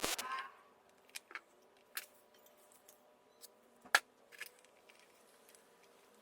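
Scattered sharp clicks and light knocks of small tools and metal parts being handled, the loudest about four seconds in, after a short rustling burst at the start.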